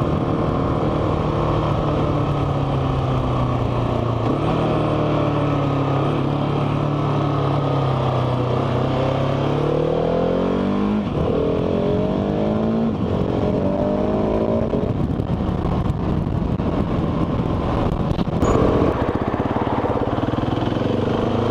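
Motorcycle engine under way, running at a steady pitch, then accelerating hard through three gears about halfway through, the pitch climbing with each gear before it settles back to a steady cruise.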